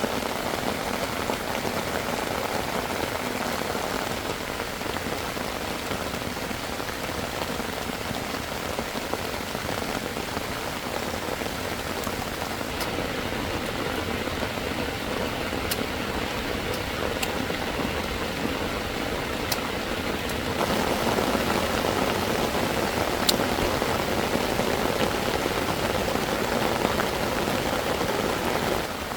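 Heavy rain falling steadily, getting louder about two-thirds of the way through.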